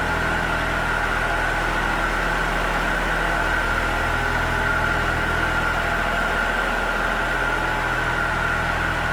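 2016 IHI 25V-4 mini excavator's diesel engine running steadily at a constant speed, with a steady high whine over the engine note.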